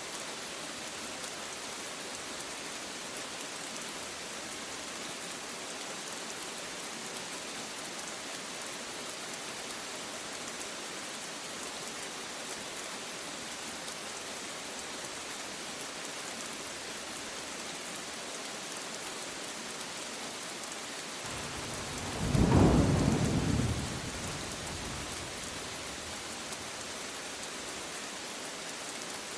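Steady rain hissing throughout, with a single clap of thunder about two-thirds of the way through that rumbles for a couple of seconds and fades.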